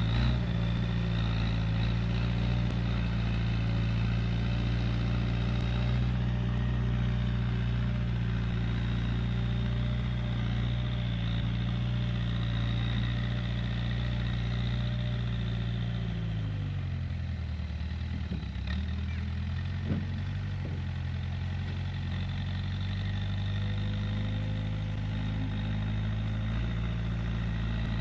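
Case 580G backhoe loader's diesel engine running steadily. About two-thirds of the way through, the engine note drops, then climbs back a few seconds later. A couple of short knocks sound as it drops.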